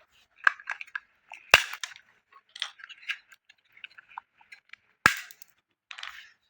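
An irregular series of sharp clicks and knocks from small hard parts being handled, with the loudest knocks about a second and a half in and again about five seconds in.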